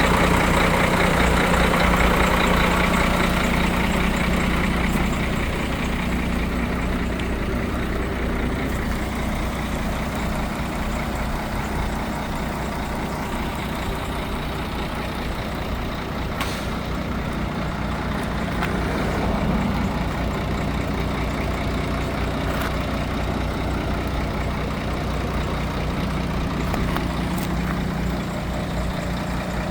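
Scania P114 truck's DC11 inline-six diesel engine running steadily, a little louder for the first few seconds and then settling to an even note.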